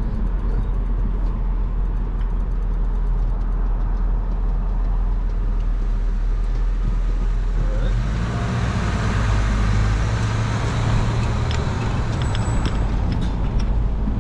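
A car being driven: steady engine and road rumble heard from inside, with the road noise growing louder about eight seconds in.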